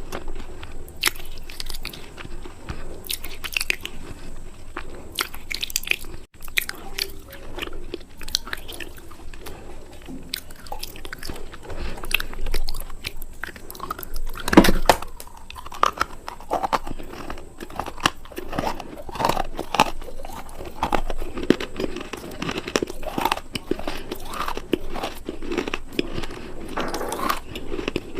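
Close-miked biting and crunching of hard, brittle pieces, with chewing between bites; one especially loud crunch about halfway through.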